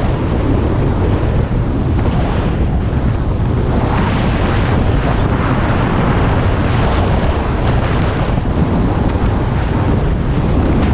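Heavy wind noise on the microphone at riding speed, steady throughout, over the low running of a Harley-Davidson Iron 1200's V-twin engine.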